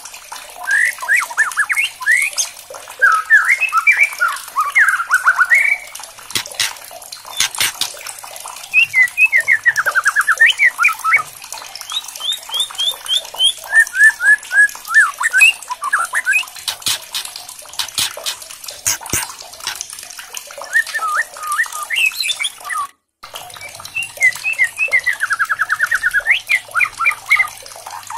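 A songbird singing loud, varied phrases with fast trills of repeated notes, broken by many sharp clicks. The sound cuts out briefly just before the last few phrases.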